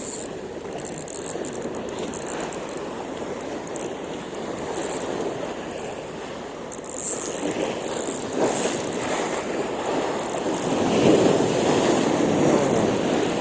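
Strong wind buffeting the microphone, with waves washing on the shore; the rushing grows louder about ten seconds in.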